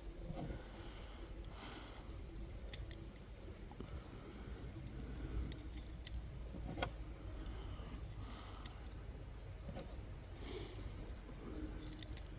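Insects chirring in a steady, high, continuous trill, with a few faint clicks.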